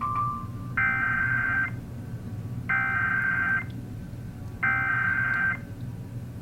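NOAA Weather Radio sending a SAME alert header ahead of a warning broadcast. A short steady tone is followed by three identical bursts of shrill data tones, each about a second long and about two seconds apart, over a low steady hum.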